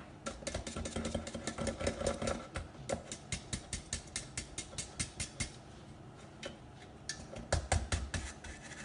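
Small brush scrubbed over a model car's grille in quick short strokes, several a second, sweeping out debris; the strokes thin out past the middle and pick up again briefly near the end.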